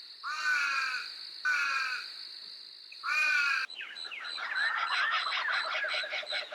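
Barn owl giving three harsh, rasping calls about a second apart. About two-thirds of the way in, a laughing kookaburra chorus starts abruptly: a dense run of rapid, rising and falling cackling notes.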